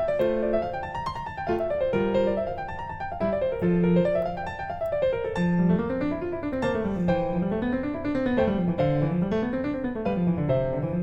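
Background piano music: flowing runs of notes rising and falling over held lower notes.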